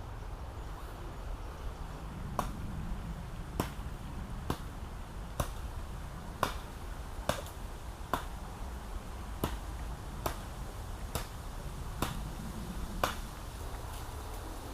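A series of sharp knocks, roughly one a second at a fairly even pace, over a steady low rumble.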